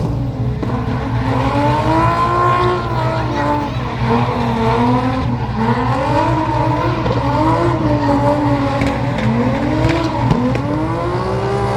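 Drift car's engine revving up and down repeatedly through a drift run, its pitch climbing and dropping every second or two over a steady low drone.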